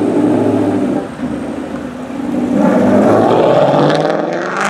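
Ford Mustang's engine revving hard as the car pulls away, rising in pitch and loudest about three seconds in.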